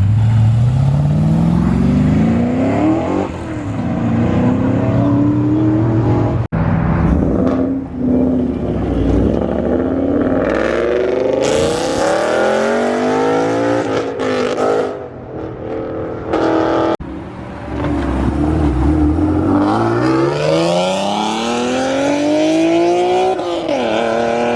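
Car engines accelerating hard away, revving up through the gears: several rising sweeps in pitch, each cut off by a sudden drop at a shift, with a burst of hissy noise midway.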